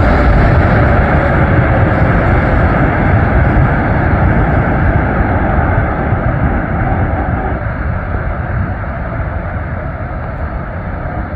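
Boeing 777 freighter's twin GE90 engines in reverse thrust after touchdown: a loud, steady rush that slowly dies away as the engines spool down.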